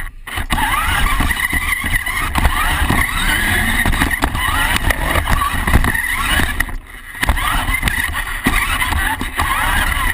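Radio-controlled monster truck's motor whining and revving up again and again, with its tyres rumbling over the ground. The throttle eases off briefly twice, at the very start and about seven seconds in.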